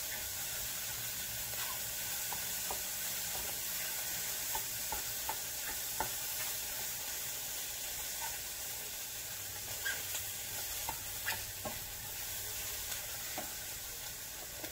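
Cut-up hot dogs sizzling in a pan that is running a little hot, being stirred and turned with a utensil, with scattered light clicks and scrapes of the utensil against the pan over a steady hiss.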